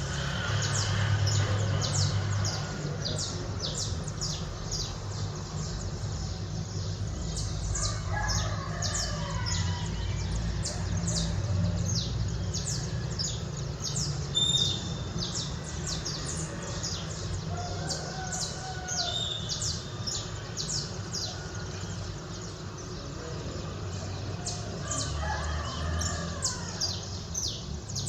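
Dawn chorus of small birds chirping rapidly and continuously, with a rooster crowing twice, once about eight seconds in and again near the end, over a steady low rumble.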